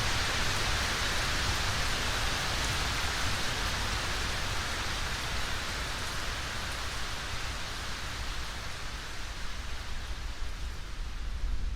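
Steady rain falling, an even hiss that thins a little near the end, over a low rumble.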